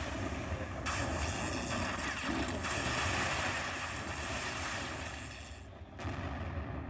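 Slot machine sound effect: a loud, wind-like rushing noise that starts suddenly about a second in and cuts off shortly before the end.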